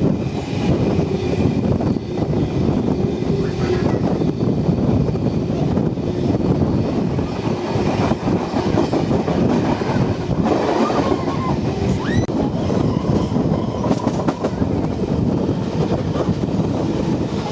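Heritage train running along the track: a steady rumble and clatter of wheels on rail, with a brief rising squeal about twelve seconds in.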